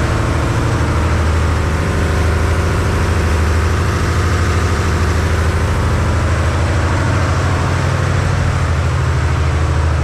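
Ferry's diesel engine running steadily: a low, even hum made of several steady tones.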